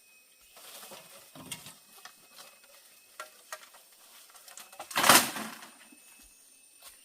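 Scattered light clicks and knocks of objects being handled, with one loud rush of noise about five seconds in that lasts about half a second.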